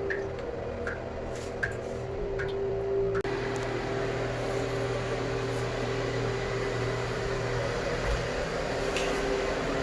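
Steady mechanical hum with one constant tone, as of a small motor or fan running, with a few light clicks in the first few seconds.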